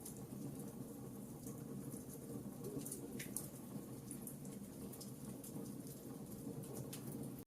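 Campfire burning, a steady low rumble under scattered sharp crackles and pops of burning wood, a few louder pops around the middle.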